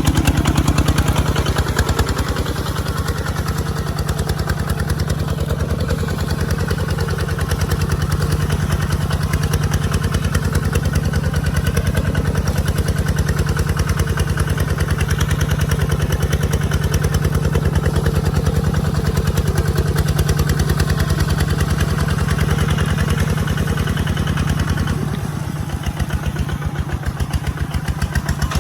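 Kubota ZT155 Plus single-cylinder diesel engine running steadily with a rapid, even chug. It gets a little quieter about 25 seconds in.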